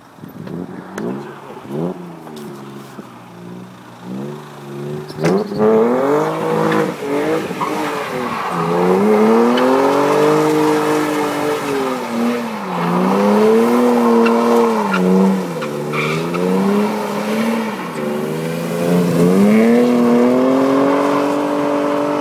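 BMW E30's M52B28 2.8-litre straight-six revving hard in repeated waves, its pitch rising and falling every couple of seconds as the car spins donuts. The rear tyres squeal over the engine. It starts with short blips and gets much louder about five seconds in.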